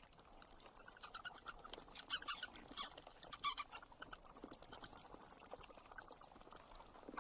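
A small animal's rapid, very high-pitched squeaks and chirps, coming in uneven bursts.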